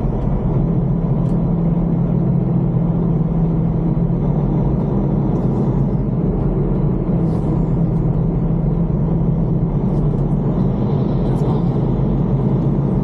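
Semi-truck's diesel engine running steadily with a constant low hum, heard from inside the cab.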